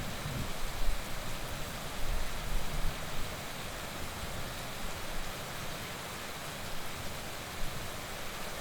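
Heavy rain falling steadily in an even hiss, with a low rumble that comes and goes, strongest in the first few seconds.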